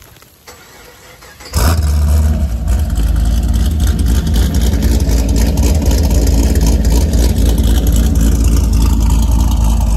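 Cammed LS V8 of a Pontiac G8 GT with Kooks headers cold-starting about a second and a half in with a loud flare, then settling into a loud, choppy idle. Before the start, the faint patter of falling ice.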